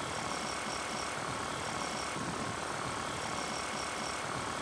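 Paramotor engine and propeller running steadily in flight, heard as an even rushing drone with a faint steady whine.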